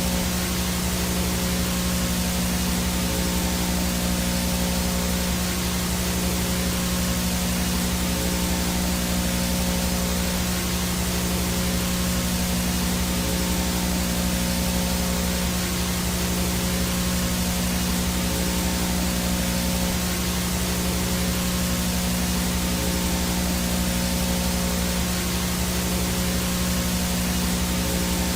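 VHS no-signal static: a steady, unchanging hiss of white noise with a low electrical hum underneath.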